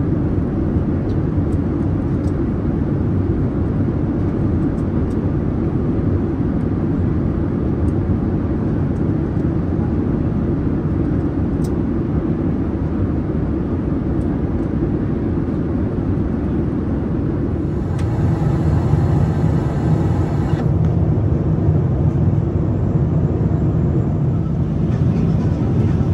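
Boeing 787-10 jet airliner's engines and airflow making a steady rushing noise, heaviest in the low range. It grows a little louder and deeper about 18 seconds in.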